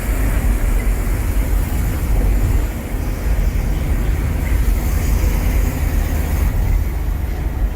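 Steady road and engine noise of a car being driven at speed, with a deep, even rumble.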